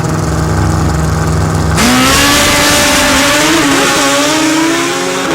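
A racing engine running. It idles low, then about two seconds in it jumps suddenly to high revs and holds there loudly, the pitch creeping slightly upward.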